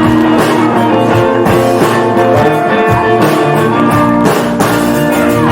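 Instrumental rock music led by guitar, with a steady drum beat and no singing.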